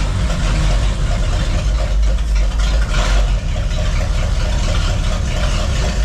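V8 engine freshly swapped into a 1964 Ford Econoline van, running at a steady idle just after its first start.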